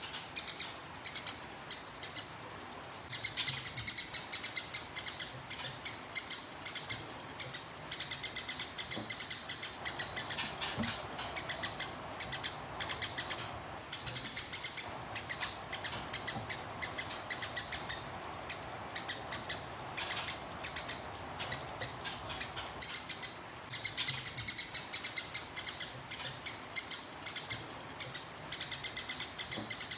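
Eurasian tree sparrow giving a fast, unbroken run of high chirps and chatter (the agitated 'gereja tarung' rolling call), with short breaks near the start and about three-quarters of the way in.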